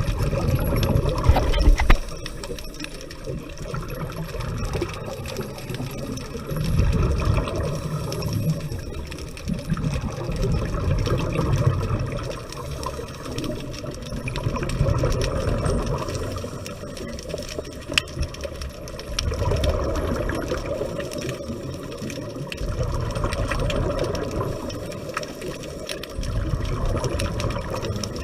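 Scuba diver breathing underwater through a regulator: a bubbling rush of exhaled air every four to five seconds, with a quieter hiss between breaths.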